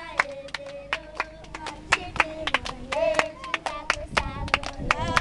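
Group of children singing a song together, with held, gliding notes, accompanied by many sharp hand claps.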